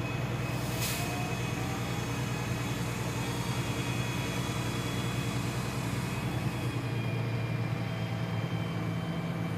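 Shingle delivery truck's engine running steadily at a constant pitch while it powers the truck's boom as it is brought back in, with a brief hiss about a second in.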